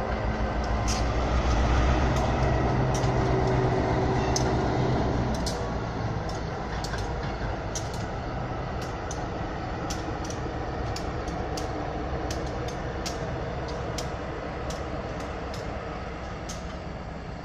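Diesel-hauled passenger train passing. The locomotive engine's low drone is strong for the first five seconds or so, then fades as the train goes by, and wheels click over the rail joints throughout.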